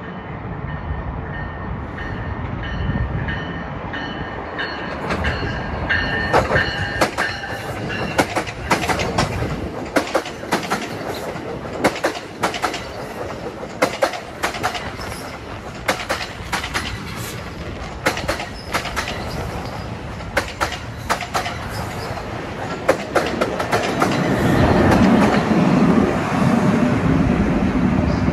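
Passenger train passing, its wheels clattering in a quick, irregular run of clicks over rail joints and switches, with a thin steady whine in the first several seconds and a louder rumble near the end.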